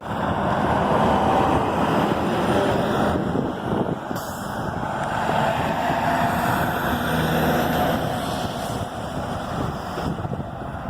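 Steady truck engine and road traffic noise, with a brief hiss about four seconds in.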